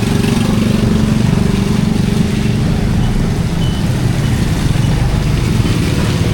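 A motor vehicle engine running close by: a steady, rapidly pulsing low rumble over general street noise.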